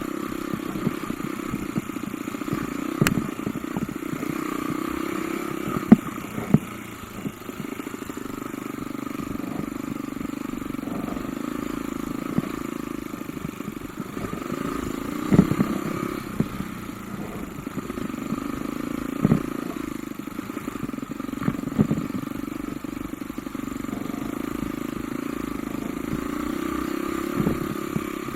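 Off-road motorcycle engine running at a fairly steady speed, with scattered sharp knocks and clatters from the bike jolting over rough trail; the loudest knocks come about 6, 15 and 19 seconds in.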